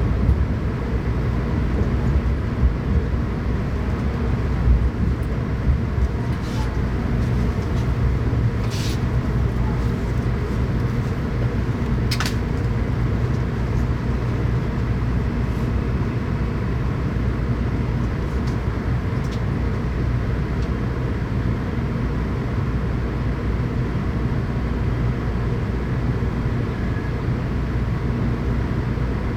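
Shinkansen train running, heard from inside the passenger car as a steady low rumble, with a few brief high squeaks in the first half. The train is about to arrive at its station stop.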